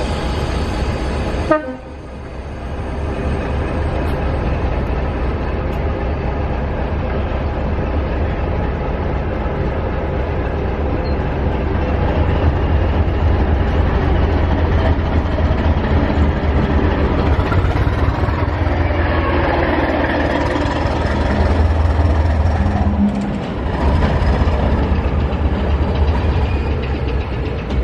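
A train running with a heavy, steady low rumble. A horn-like call sounds in the first second and a half, then drops sharply in pitch and stops.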